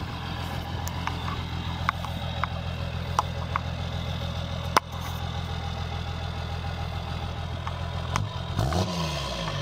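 Dodge pickup's 5.9 Cummins turbo diesel idling with a steady low rumble, then rising and falling in pitch near the end, as from a quick rev. There is a sharp click about five seconds in.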